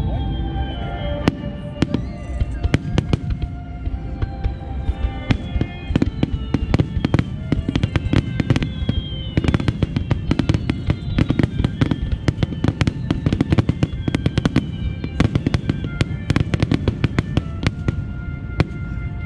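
A starmine barrage of aerial fireworks: rapid bangs and crackles, several a second, growing denser through the second half. Steady music tones run underneath.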